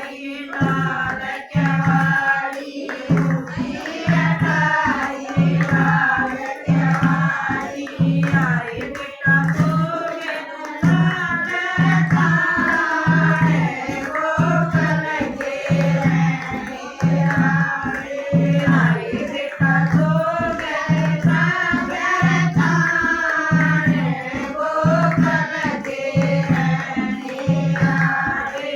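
Haryanvi devotional bhajan to Krishna, sung by a voice over a steady, evenly repeating hand-drum beat.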